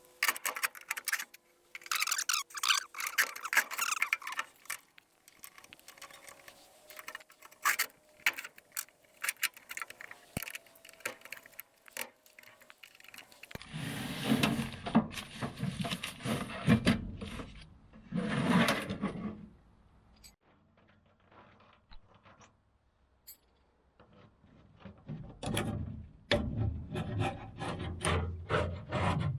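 Hand work fitting batteries into a truck: scattered clicks and knocks, faint squeaks, and two longer stretches of scraping and rubbing, metal and battery casings being handled and shifted into place.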